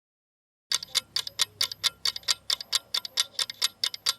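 Quiz countdown-timer sound effect: rapid clock ticking, about six ticks a second, starting under a second in after silence.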